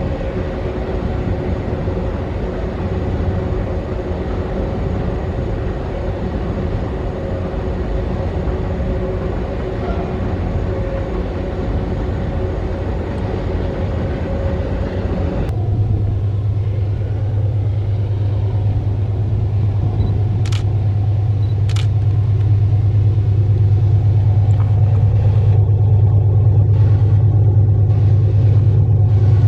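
Empty pulp freight train wagons rolling past with a steady rumble. About halfway in, this cuts to a diesel locomotive running with a deep, steady hum that slowly grows louder, with two short clicks.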